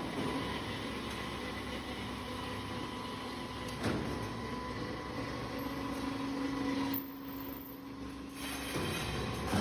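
Automatic copper tube end forming and flattening machine running: steady mechanical noise with a steady hum over part of it and a single sharp knock about four seconds in, the noise dropping off briefly near the end.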